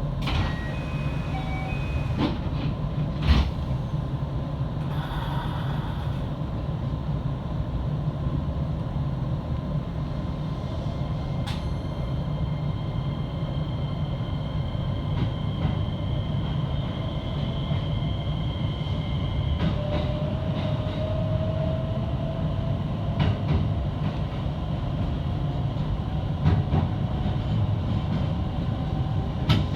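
Electric train running: a steady low rumble of wheels on rail with scattered sharp clicks, and a faint whine that rises in pitch about two-thirds of the way through.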